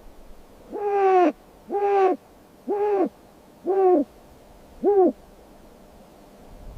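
Five hooting calls, evenly spaced about a second apart, each a short note that rises and falls in pitch.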